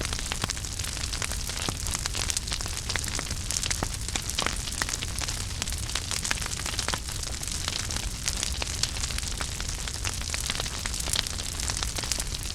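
Wood fire burning in a fireplace: steady crackling with frequent small pops over a low rumble of the flames.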